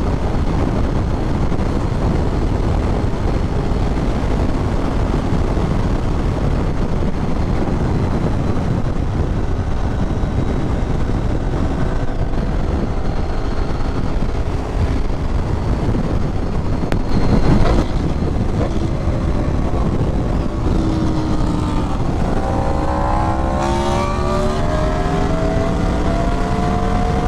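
Heavy wind and road noise from a moving motorcycle with its engine running, with a brief louder rush about two-thirds of the way in. In the last few seconds the engine note climbs steadily as the bike accelerates.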